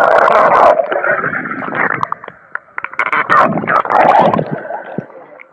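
Water gurgling and splashing close to the microphone in loud, uneven surges, with scattered clicks; it fades near the end.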